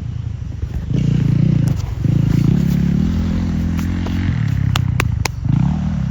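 Yamaha motocross bike engine revving in repeated bursts of throttle, the pitch rising and falling. A few sharp clicks come near the end.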